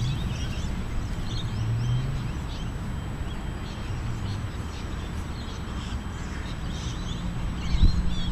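Small birds chirping here and there over a steady low rumble of outdoor background noise.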